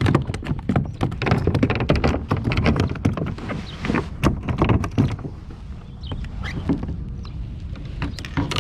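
Rapid knocks, taps and slaps on a plastic kayak while a small, just-landed fish is handled, thick for the first five seconds and then sparser.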